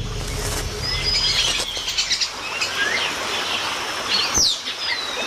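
Several rainforest birds calling, with short whistled chirps and pitch glides, a rapid trill of repeated notes about two seconds in, and a falling sweep after about four seconds.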